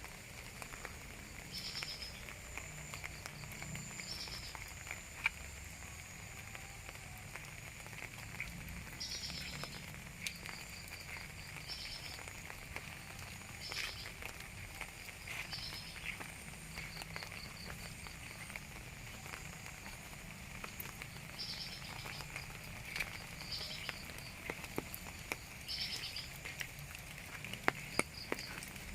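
Rain falling, with frogs and insects calling steadily in the background and a short high call repeating every couple of seconds. A few sharp ticks of drops come near the end.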